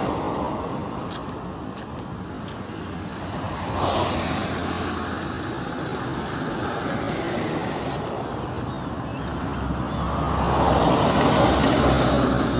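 Road traffic: a steady wash of vehicles passing, with one passing louder about four seconds in and a heavier vehicle with a low engine hum going by near the end.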